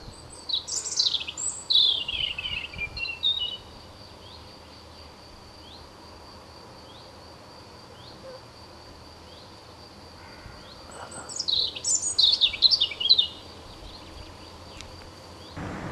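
A songbird sings two descending warbled phrases, one near the start and another about eleven seconds in. Under them runs a steady, high, thin insect buzz.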